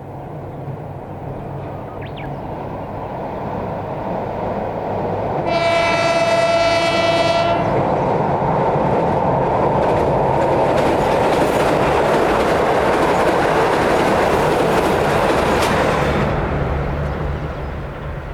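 A JR Central KiHa 85 series diesel limited express train approaches and passes close by. It sounds its horn for about two seconds as it nears. Then comes about ten seconds of loud diesel engine and wheel-and-rail noise, which fades near the end.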